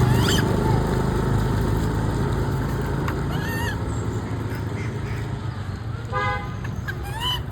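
Steady low vehicle rumble that slowly fades, with a short horn-like toot about six seconds in and a few brief high, bending calls.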